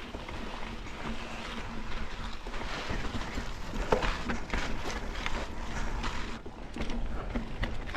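Mountain bike rolling over slickrock: a steady rumble from the tyres and wind, broken by frequent clicks and rattles from the bike, with one sharper knock about four seconds in.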